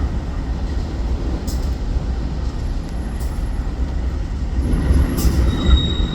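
Train passing, a steady heavy rumble with light clicks every couple of seconds; a thin high whine comes in near the end.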